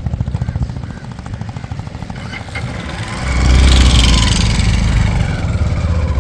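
Motorcycle engine running with a steady low rhythmic beat. About three seconds in, a louder rush of a passing vehicle swells up, its pitch falling as it goes by.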